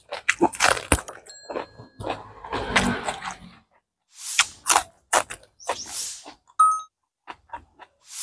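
Close crunching and chewing as raw bitter melon and spring onion are bitten, in uneven bursts of crackling bites. Two short electronic tones sound, one early and one near the end.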